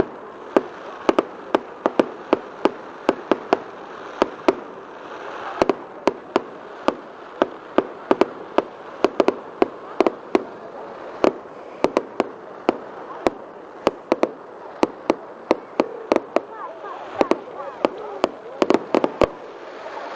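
Fireworks going off in a rapid, irregular string of sharp bangs and cracks, several a second, over a background murmur.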